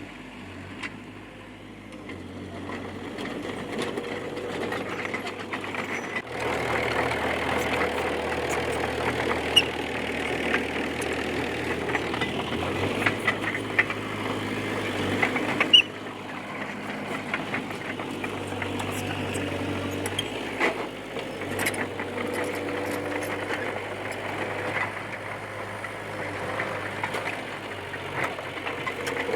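Komatsu D20P bulldozer's diesel engine running and working, its note stepping up and growing louder about a fifth of the way in and dropping back a little before halfway. Scattered metallic clanks and clicks from the machine sound over the engine, one sharper clank just past halfway.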